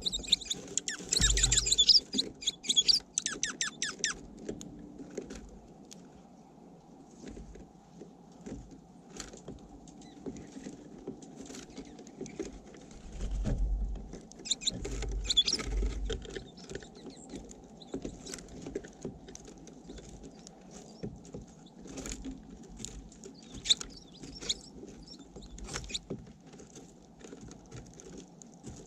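Small birds feeding at a bird feeder: irregular clicking and tapping of beaks and feet on the feeder and seed, busiest in the first few seconds, with a few low thumps.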